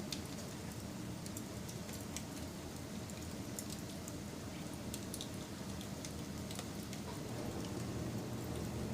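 Wood fire burning, with a steady low rumble of flame under scattered sharp crackles and pops, a few each second.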